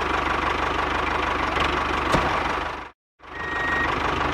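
Tractor engine running steadily with an even low pulse. It cuts out abruptly for a moment just before three seconds in, then comes back, and a reversing beeper sounds one steady half-second beep near the end.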